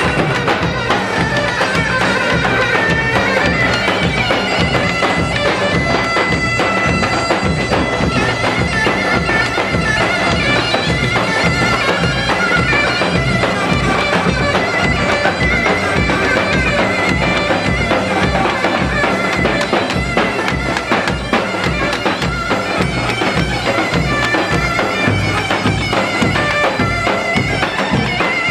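Halay folk dance music: a reedy wind-instrument melody held over a steady drum beat.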